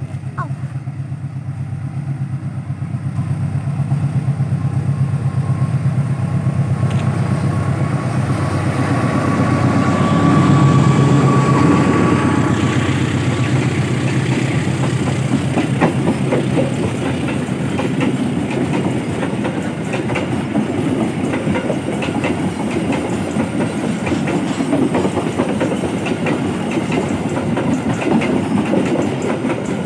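A train passing close by: a locomotive's low steady engine hum, then carriages rolling past with the rapid clickety-clack of wheels over rail joints. A brief thin whine sounds about ten seconds in.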